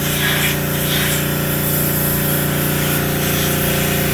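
Pressure washer running steadily, its motor humming under the hiss of the spray.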